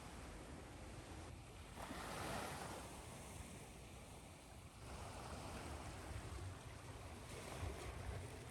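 Ocean waves washing ashore over a steady hiss of white noise. A wave swells up about two seconds in, and a low rumble sets in from about halfway.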